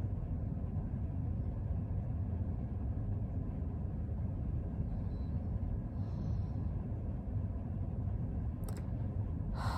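Steady low rumble of background noise, with two faint brief hisses about five and six seconds in.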